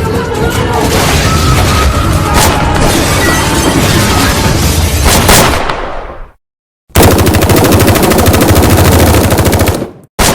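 Automatic gunfire sound effects. A dense, continuous volley fades out about six seconds in. After a short silence comes a second burst of rapid, evenly spaced machine-gun shots lasting about three seconds.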